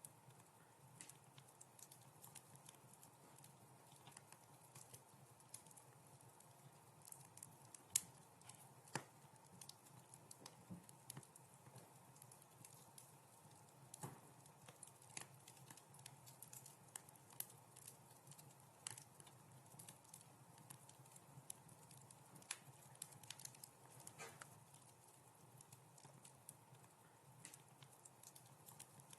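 Wood fire in a fireplace crackling softly: irregular sharp pops and snaps over a faint low hiss, with one louder pop about eight seconds in.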